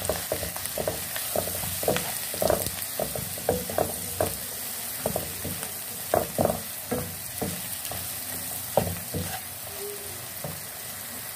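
Potatoes and onions sizzling in oil in a non-stick pan while a wooden spatula stirs them, its strokes scraping and knocking against the pan. The stirring strokes thin out near the end.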